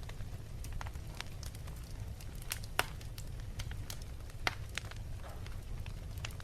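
Wood fire in a fireplace crackling, with irregular sharp pops, two louder ones just before halfway and about two-thirds in, over a steady low rumble.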